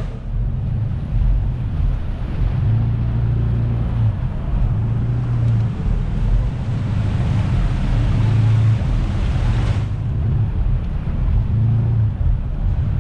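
An engine running steadily with a low rumble, with wind noise on the microphone. A rushing hiss builds and cuts off suddenly about ten seconds in.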